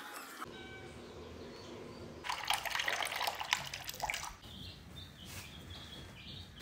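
Ring-necked parrot bathing, splashing and fluttering in water in a burst that starts about two seconds in and lasts about two seconds, with smaller splashes after.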